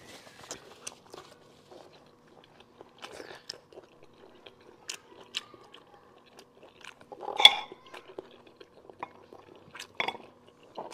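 Close-miked chewing of conch meat: scattered wet mouth clicks and smacks, with one louder sharp smack about two-thirds of the way through. Near the end, conch shells knock against each other and the plate.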